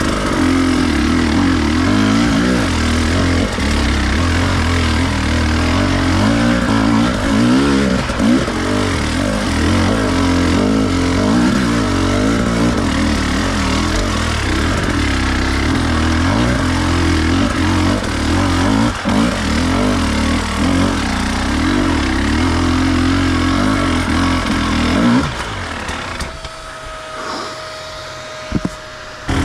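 Enduro dirt bike engine running, its revs rising and falling as it is ridden. About 25 seconds in the engine sound drops away abruptly, leaving a quieter stretch with a faint steady whine.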